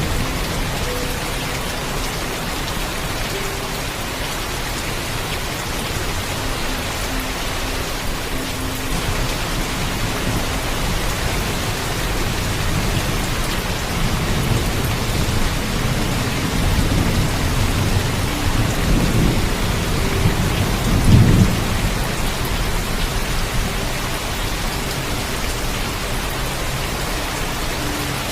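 Heavy steady rain with thunder. A low rumble builds about halfway through, swells to a sharp peak a few seconds later, then rolls away under the rain.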